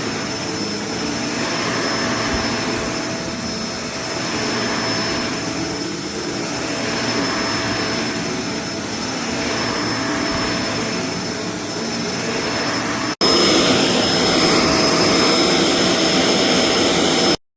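Kenmore BU4050 bagged upright vacuum cleaner running, a steady motor rush with a high whine, swelling and easing every couple of seconds. About 13 seconds in it cuts to a louder stretch of the same running sound, which stops abruptly just before the end.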